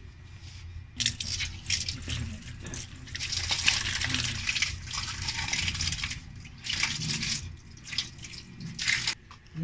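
A stream of water pouring and splashing onto bare feet and a concrete floor, coming in several surges, heaviest in the middle.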